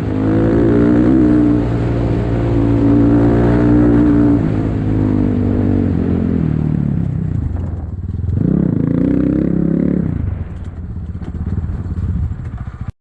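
Enduro motorcycle engine running under load, its pitch rising and falling with the throttle: a long burst of revs that drops off about halfway, a second short rise and fall, then quieter running with some clatter. The sound cuts out abruptly just before the end.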